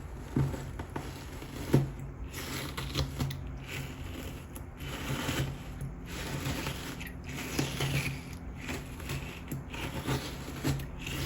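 Clear glue slime full of pumice stone being squeezed and worked by hand, crunching with quick, irregular crackles and pops.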